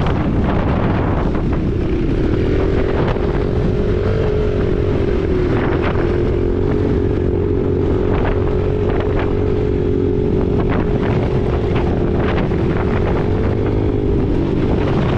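Husqvarna 501 dirt bike's single-cylinder four-stroke engine running at a steady trail pace, its pitch dipping and rising slightly, under heavy wind buffeting on the unshielded microphone.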